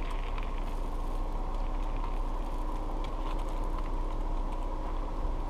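Car engine running steadily with a low hum, heard from inside the car's cabin.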